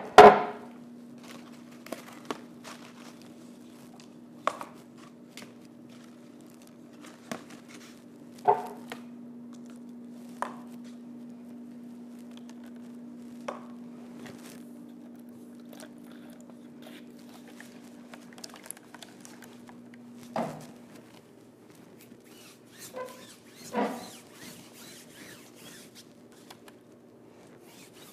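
Scattered knocks and clicks of work noise while painting, over a steady low hum that stops about twenty seconds in.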